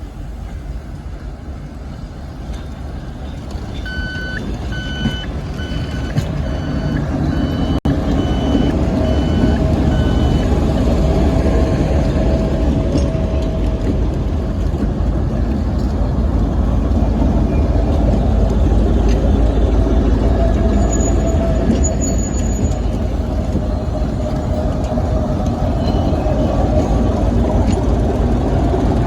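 A departing train hauled by a P36 steam locomotive, a heavy low rumble that grows louder over the first several seconds and then holds. Between about four and ten seconds an electronic warning signal beeps about eight times, under a second apart.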